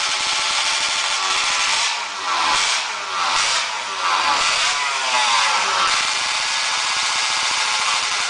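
Speedway racing motorcycle engines running, with several bikes revving and passing between about two and six seconds in, their pitch rising and falling.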